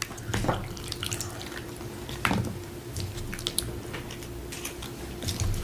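A spoon clicking against a dish, with wet squishes as chunky pico de gallo is scooped and spooned onto a taco: scattered small clicks and a few sharper wet taps.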